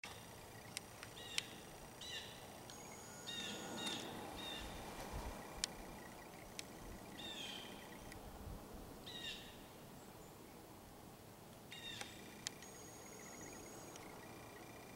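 Woodland birds calling: a run of short, harsh, downslurred calls repeated every second or two, with a few thin, high, drawn-out notes and scattered small clicks.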